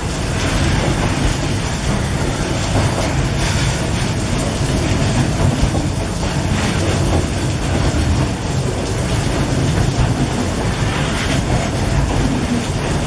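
Loaded freight wagons carrying eucalyptus logs rolling past close by, a steady rumble and clatter of steel wheels on the rails. Heavy rain is falling over it.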